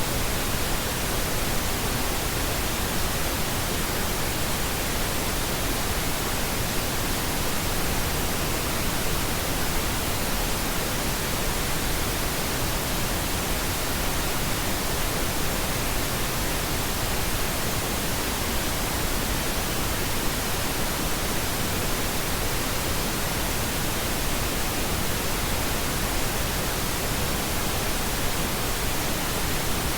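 Steady pink noise: an even, unchanging hiss across the whole range of pitch, with no tones or events in it.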